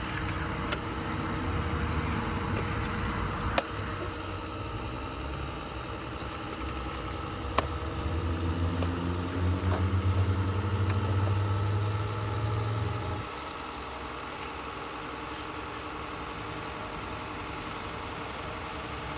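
An engine running at a steady low idle hum that grows louder for a few seconds and then drops back abruptly, about two-thirds of the way through. Two sharp clicks stand out, near the start and about a third of the way in.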